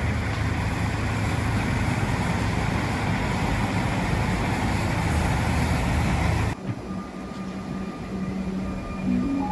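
A train running at a station platform, a loud steady rumble and hum that cuts off abruptly about six and a half seconds in, leaving a quieter steady hum with faint tones.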